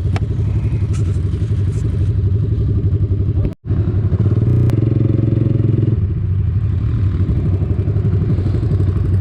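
Quad bike (ATV) engine running under load with a steady, pulsing rumble and some rattle. The audio cuts out for an instant about a third of the way in.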